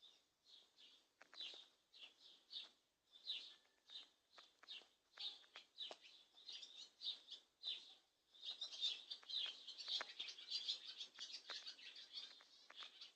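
Faint chirping of small birds: short repeated chirps, sparse at first and becoming a dense, continuous chatter from about two-thirds of the way in.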